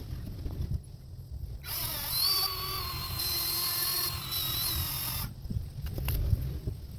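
Handheld rotary tool switched on about two seconds in and run for about three and a half seconds with a steady high whine, dipping in pitch just before it is switched off.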